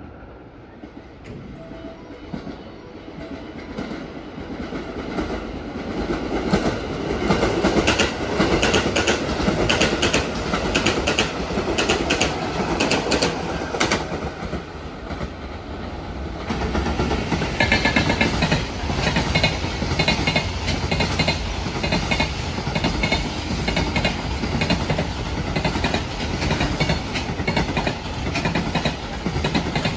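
A JR 221 series electric train passes close by, its wheels clattering over the rail joints. About halfway through, a long container freight train follows with a steady, rhythmic clickety-clack of its wagons' wheels.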